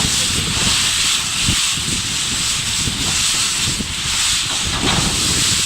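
Strong storm wind blowing hard and buffeting the microphone: a steady rushing hiss with irregular low rumbling gusts.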